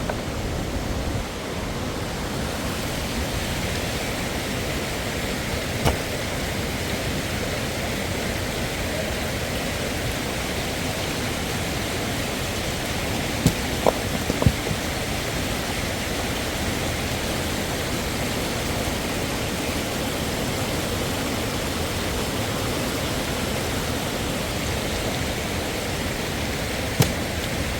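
Steady rush of a waterfall's falling water, with a few short knocks: three close together about halfway through, and single ones near the start and end.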